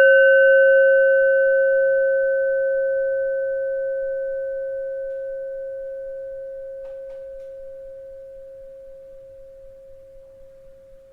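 A bell ringing out with one clear steady tone and a few fainter higher overtones, fading slowly and evenly throughout; the highest overtones die away within the first few seconds.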